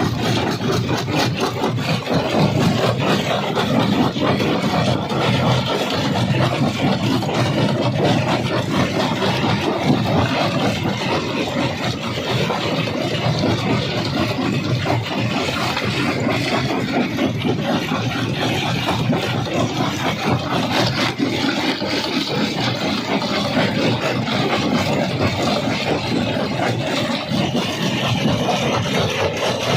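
Jaw crusher running: a steady machine drone under a constant clatter of stone knocking and cracking as rock is crushed.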